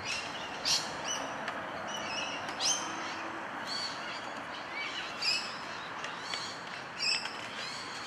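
Birds calling outdoors: short, sharp high-pitched calls repeating about every two seconds over a steady background hiss.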